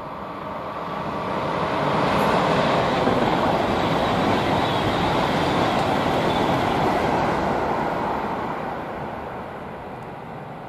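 Rolling rumble of a passing train that swells over the first couple of seconds, holds, and fades away from about eight seconds in.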